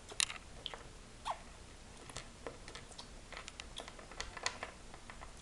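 Scattered light clicks and taps of small plastic toy figures and accessories being handled and set down on a hard surface, with a brief faint squeak about a second in.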